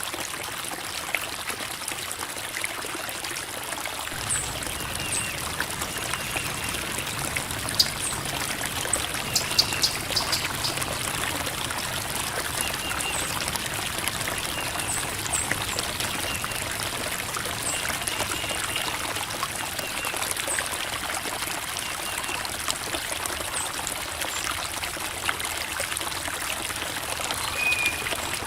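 Creek water babbling and trickling over rocks in a steady, even flow. Short high chirps are scattered through it, and the flow sounds fuller and deeper from about four seconds in.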